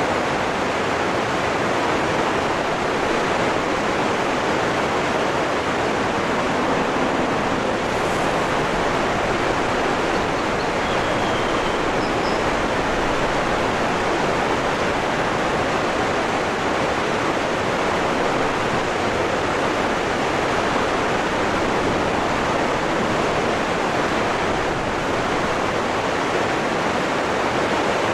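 Waterfall rushing steadily, a dense even roar of falling water with no change in level.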